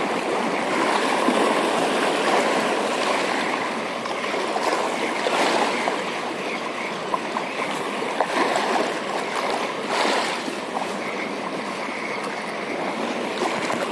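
Water washing and splashing over rocks at the shoreline: a steady rushing noise with small splashes.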